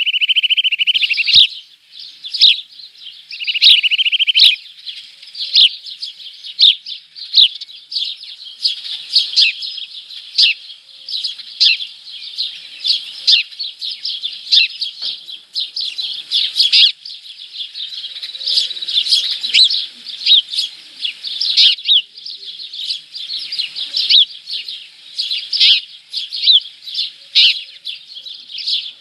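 Small birds calling inside a nest box: a steady run of quick, sharp chirps, with two short buzzy trills near the start.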